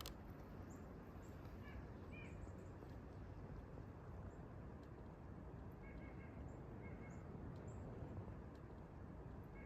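Faint, short bird chirps, a couple about two seconds in and a few more around six to seven seconds, over a low, steady outdoor background hum.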